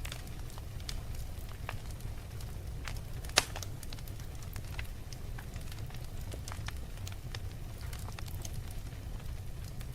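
Wood fire crackling: a steady low rumble of the flames with irregular sharp pops and snaps, one of them louder about three and a half seconds in.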